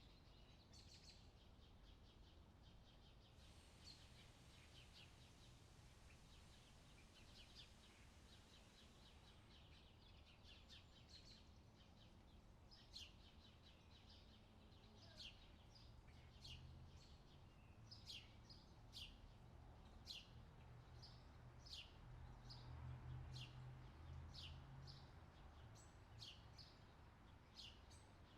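Faint birdsong from forest birds: quick twittering in the first few seconds, then from about twelve seconds a long run of sharp, downward-slurred notes repeated about twice a second. A low steady rumble sits underneath and grows louder in the second half.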